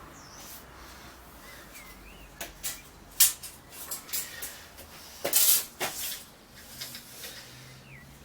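Scattered clicks and knocks of timber and tools being handled, with a louder brief scrape about five seconds in.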